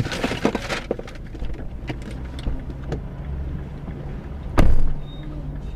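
A car running with a steady low hum. About four and a half seconds in comes one loud, sharp thump.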